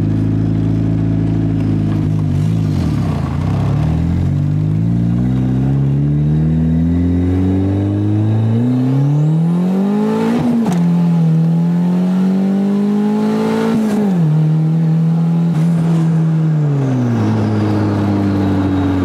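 Turbocharged Honda B18 four-cylinder in an Integra accelerating hard through the gears, heard from inside the cabin: the revs climb, drop sharply at an upshift about ten seconds in, climb again to a second upshift a few seconds later, then hold steady before easing off near the end.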